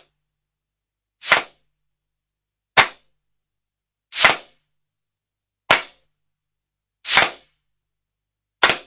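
Six short, hissy percussive hits, evenly spaced about a second and a half apart, with dead silence between them; some start sharply, others swell in briefly.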